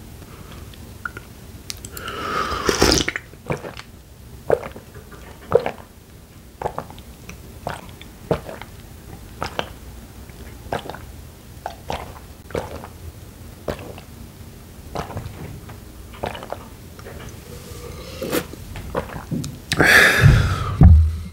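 Close-miked chewing of chicken wings, in a steady rhythm of about one chew a second. A louder, longer noisy mouth sound comes about two seconds in, and another near the end.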